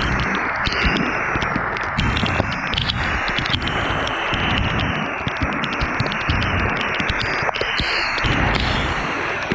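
Rushing wind and rain noise on a microphone during a ride in the rain, with raindrops ticking sharply on the mic and a low, uneven rumble underneath.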